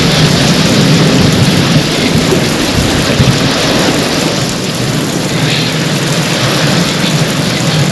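Heavy rain pouring steadily, with a low rumble of thunder under it.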